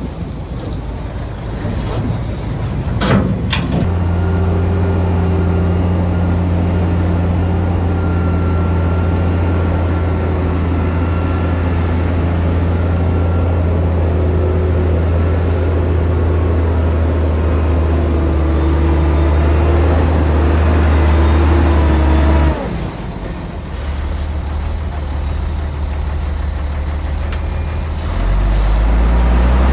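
Heavy diesel engine of an earthmoving machine running steadily under load, after a short sharp sound about three seconds in. The engine note drops off about two-thirds of the way through and builds again near the end.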